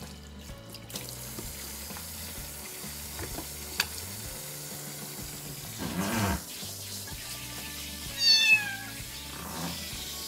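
Tap water running steadily into a sink as a month-old kitten is rinsed. About eight seconds in the kitten gives one loud, falling meow, the loudest sound in the stretch.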